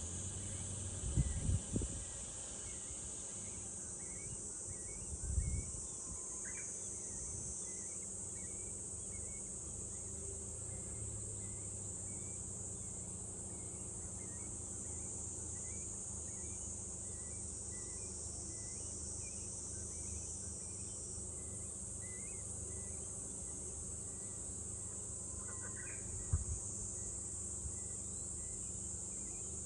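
Cicadas droning in a steady high-pitched chorus, with faint short chirps repeating over it. A few brief low thumps break in about one and five seconds in and again near the end.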